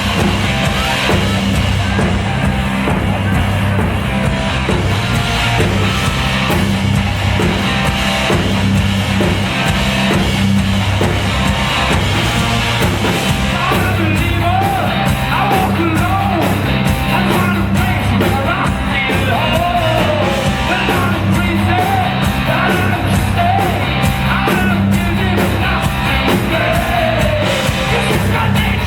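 Hard rock band playing live: a heavy, distorted guitar and bass riff, joined about halfway through by a steady drum and cymbal beat and a singing voice.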